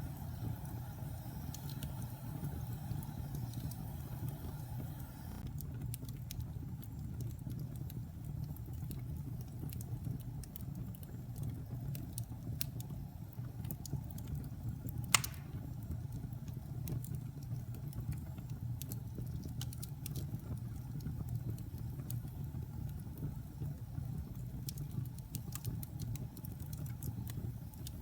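Wood fire burning in a fireplace: a steady low rumble with scattered crackles and one loud pop about halfway through.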